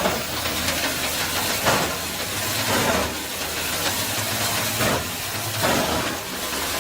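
Wood chipper running under load, shredding branches, with a steady engine hum beneath loud crunching surges that come every second or two as the wood is fed in.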